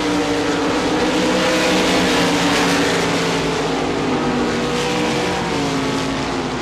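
A pack of RaceSaver sprint cars' 305-cubic-inch V8 engines running at race speed, several engine notes overlapping and swelling and easing slightly in pitch.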